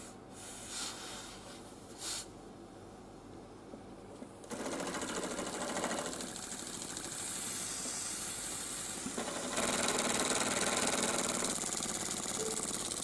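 Homemade PVC compressed-air engine starting up about four and a half seconds in and running fast with a rapid, even mechanical clatter, which gets louder about nine and a half seconds in. Before it starts there are only two brief noises.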